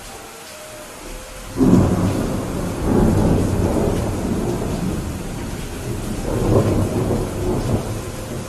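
Steady rain with a thunderclap breaking about a second and a half in; its low rumble rolls on and swells again near the end.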